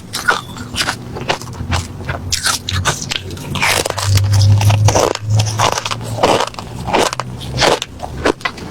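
Close-up crunching of refrozen crushed ice being bitten and chewed: a fast, irregular run of crisp crunches, thickest about halfway through.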